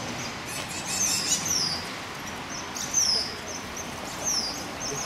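Songbird calling: short, high chirps that sweep downward, repeated about every one and a half seconds over a steady background hiss.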